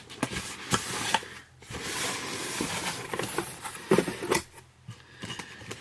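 Rustling and crinkling of packaging with scattered clicks and knocks as a subscription box is opened and its contents handled.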